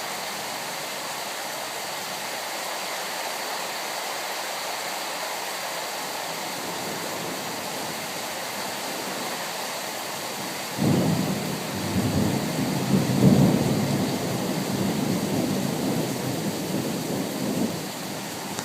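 Steady rain falling, then about eleven seconds in a loud thunderclap breaks out suddenly and rumbles on for about seven seconds before dying back into the rain.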